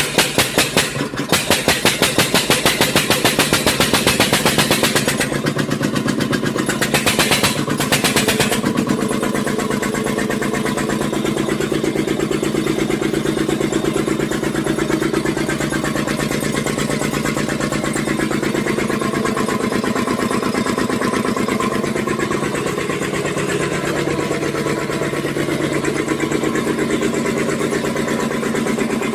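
A 14 hp engine running, with heavy, evenly spaced firing beats of a few a second for the first few seconds. It gives a louder surge about seven seconds in, then settles into a faster, steady run.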